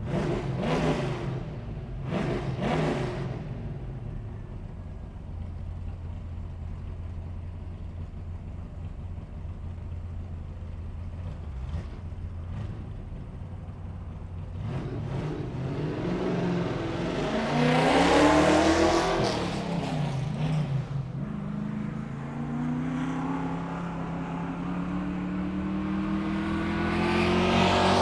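Car engine blipped twice, then idling steadily, then revving up to a peak and dropping back. Near the end the revs climb again in a long, steady rise.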